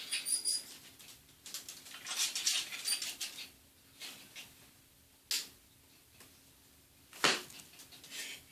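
Yorkshire terrier scrabbling and pawing, with irregular scratching and scuffling. Two sharp sudden sounds come about five and seven seconds in, the second the louder.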